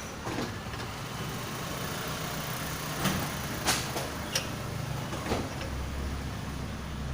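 Several short sharp clicks and knocks of work on engine parts, the loudest about three and a half seconds in, over a steady low hum.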